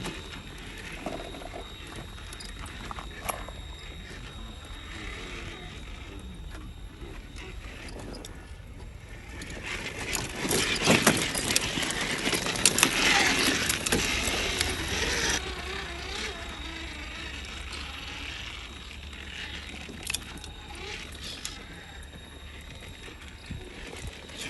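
1/10-scale RC crawler truck driving, with a faint steady high motor whine. Partway through comes a louder stretch of several seconds of crunching and clattering, with scattered clicks and knocks.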